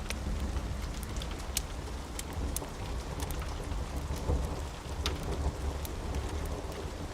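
Steady rain with a low, continuous rumble of thunder underneath, and scattered sharp ticks scattered through it.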